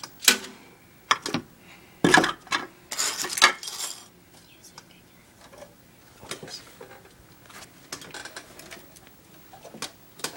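Small hard objects being handled and set down: a series of sharp clicks and knocks in the first few seconds, with a short rustle about three seconds in, then fainter scattered ticks of handling.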